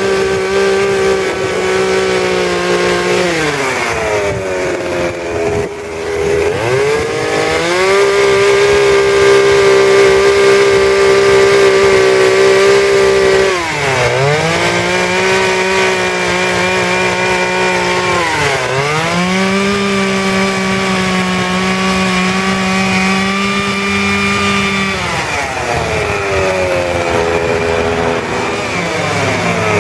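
Two-stroke chainsaw running at high revs while carving wood, its engine note dropping and picking back up about four times.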